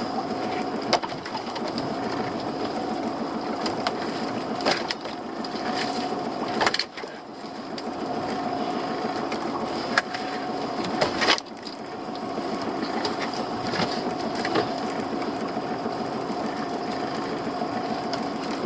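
Small fishing boat's motor running steadily with a fast, even pulse, with a few sharp knocks now and then.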